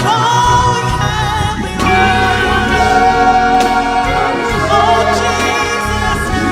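Gospel worship song: a group of voices singing long, wavering held notes over instrumental backing with a steady bass.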